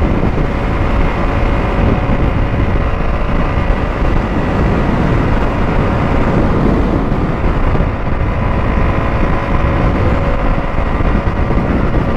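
KTM Duke 200's single-cylinder engine running steadily while riding, under heavy wind rush on the rider's microphone.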